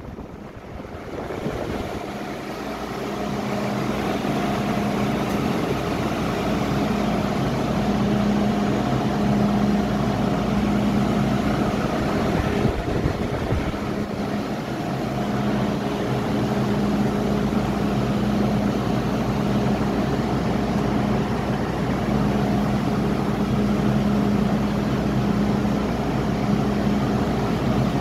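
Steady hum inside an MTR M-Train car at a station platform, with a low drone and a pitched tone that comes and goes; the train moves off along the platform near the end.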